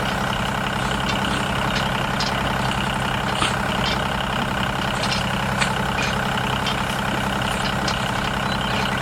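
Mini tractor's motor running steadily with an even, unchanging low hum, with a few faint light clicks over it.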